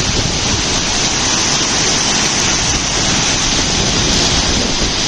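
Water pouring through a lock's spillgate: a loud, steady rush.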